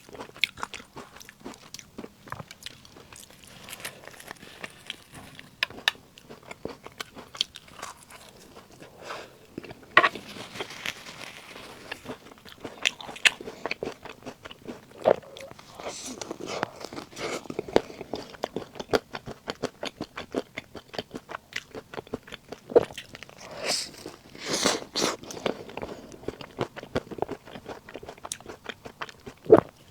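Close-miked eating of puff snacks: biting and chewing with many small crisp mouth clicks and crunches, and louder bites about ten seconds in and again between about 24 and 26 seconds.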